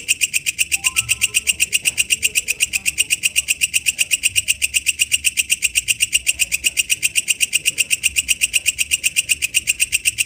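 Walang kecek katydid calling: a fast, even train of high, dry pulses, about seven a second, going on without a break.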